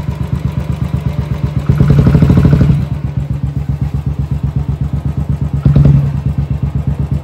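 Royal Enfield Bullet's single-cylinder engine idling with an even, rapid thump. It swells louder for about a second twice: about two seconds in and again near six seconds.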